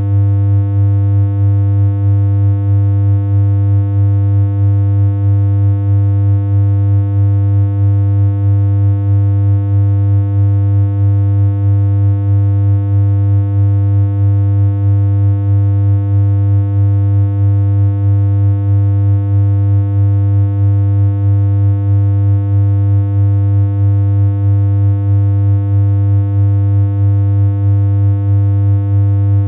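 A steady synthesized electronic hum: one low, buzzy tone with many overtones, held without change.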